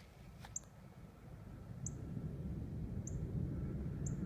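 A small bird giving a short, high chirp about once a second, over a low rumble that swells from about a second and a half in.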